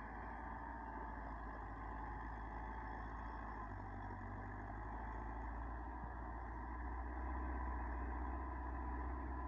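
Tractor engine running steadily while pulling a plough, a low drone that grows a little louder about seven seconds in.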